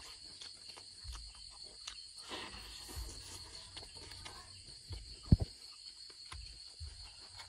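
Close-up eating sounds: a person chewing fried crickets and omelette, with small crunches, lip smacks and the rustle of egg being torn by hand. A steady high-pitched drone runs underneath, and a sharp knock comes about five seconds in.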